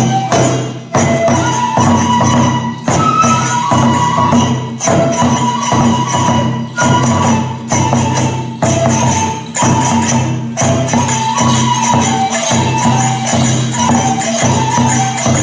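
Kagura festival music: a taiko drum and jangling hand cymbals beat a steady rhythm under a flute melody, with short breaks in the rhythm about every two seconds.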